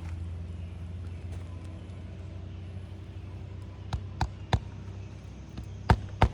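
Hammer driving roofing nails back into an asphalt shingle: three quick strikes about four seconds in, then two more near the end, over a steady low hum.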